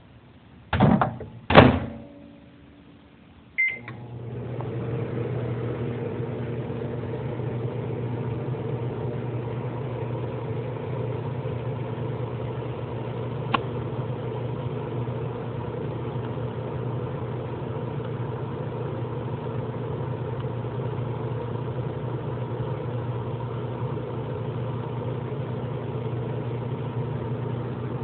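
Two knocks, a short keypad beep, then a microwave oven starting and running with a steady hum. A single faint click comes about halfway through, but there is no sparking from the aluminium foil inside.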